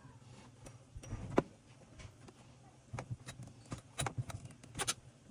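A scattering of light clicks and taps from hands working on a partly dismantled Echo CS-3000 chainsaw as its crankshaft is checked for bearing play. The taps come in small clusters, with the sharpest ones about four seconds in and again near the end.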